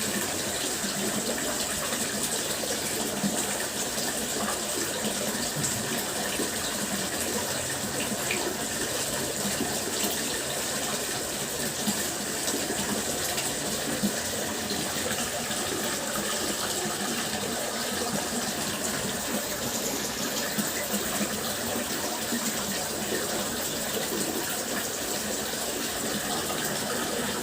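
Water fountain splashing, a steady rush of falling water.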